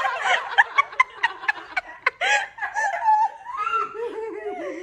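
A group of people laughing together in quick, repeated giggles, several voices overlapping.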